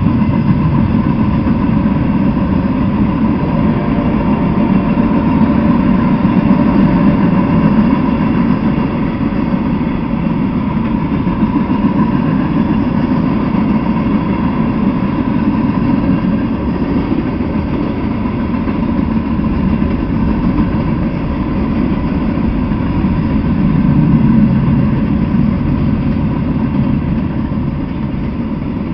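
Freight train cars rolling past close by: a steady rumble of steel wheels on the rails as hopper cars and tank cars go by, with a thin steady high tone running through it.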